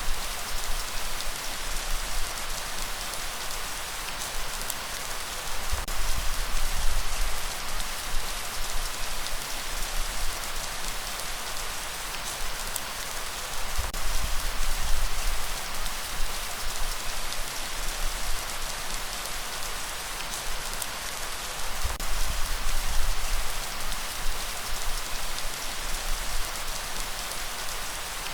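Steady rain falling, an even hiss of drops, with a low rumble that swells and fades every several seconds.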